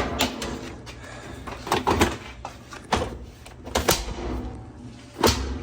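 Several sharp knocks and clatters, roughly a second apart, as the sheet-metal cabinet of an old Kenmore direct-drive washer is fitted back on and snapped into its retaining clips.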